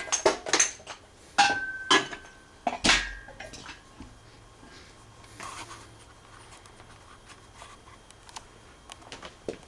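Metal tools and engine parts clinking and scraping as the engine is worked on: a cluster of sharp clanks in the first three seconds or so, a couple ringing briefly, then only light scattered clicks.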